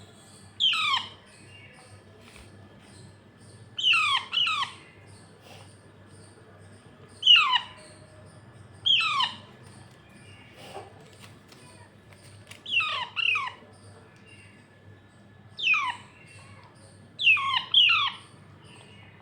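Indian ringneck parakeet chick, about a month old, giving short, harsh calls that fall steeply in pitch. They come every couple of seconds, several in quick pairs: the food-begging calls of a chick at feeding time.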